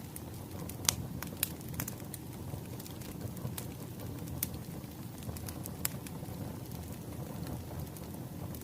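Wood fire crackling and popping over a low steady rumble of burning logs, with sharp snaps a few times a second, one louder pop about a second in.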